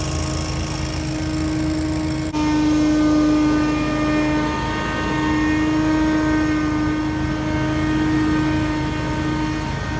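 Scag Windstorm stand-on leaf blower running steadily, its engine and fan giving a continuous hum with a steady whine. About two seconds in the sound dips briefly and then carries on a little louder.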